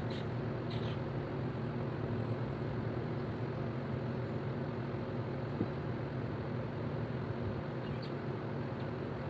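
A steady low mechanical hum. A few brief, high hisses come near the start and again about eight seconds in.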